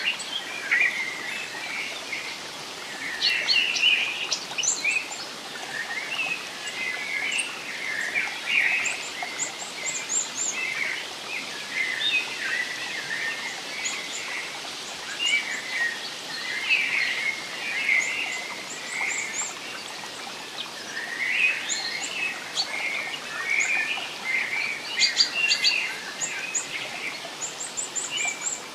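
Many small forest birds chirping and twittering in quick overlapping calls, some very high and thin, over a soft steady hiss of background noise.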